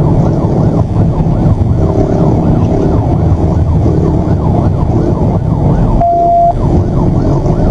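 Police car siren sounding a fast yelp, its pitch rising and falling several times a second, over heavy engine and road noise inside the patrol car during a high-speed pursuit. About six seconds in, a short steady beep sounds for half a second.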